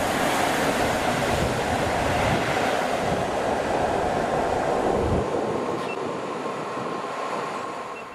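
Passenger train of coaches behind an EP07 electric locomotive rolling past on the rails, a steady rumble and hiss. After about five seconds the deep rumble drops away and the noise fades, leaving a faint thin whine.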